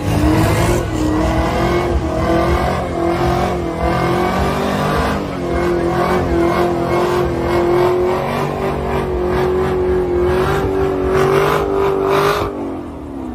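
A car engine held at high revs for about twelve seconds, its pitch creeping slightly upward, then falling away near the end as the throttle is let off.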